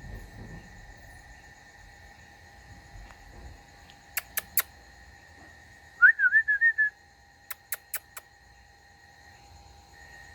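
A short, high, wavering whistle-like call about six seconds in, the loudest sound, with quick sets of three or four sharp clicks just before and after it, over a steady faint high drone.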